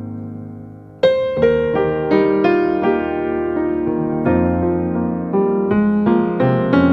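Background piano music: a held chord fades for about a second, then a steady run of gentle notes begins.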